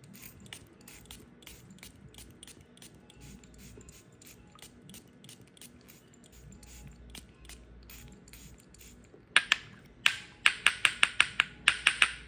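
Dry soap being cut: faint crisp clicks at a few a second, then from about three seconds before the end a quick run of about a dozen loud, sharp crunching clicks.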